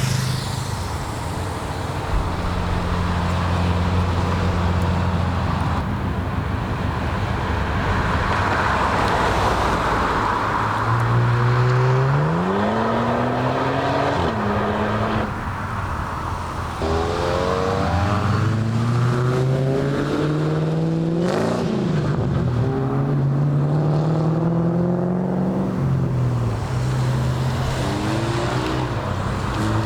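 Car engines running, then one car accelerating away: its engine note rises several times, dropping back between rises as if through gear changes.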